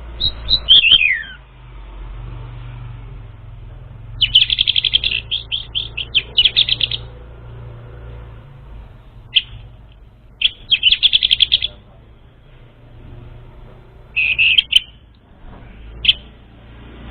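Songbird singing in bursts of rapid chirping trills, opening with a falling whistled phrase, over a steady low hum. It is a lure song played to draw out and train young, untrained orange-headed thrushes.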